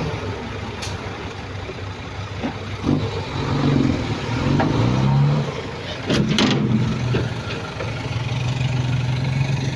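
Heavy earthmoving machine's diesel engine working: it revs up and down around the middle, with two sharp knocks a little after six seconds in, then runs steadily.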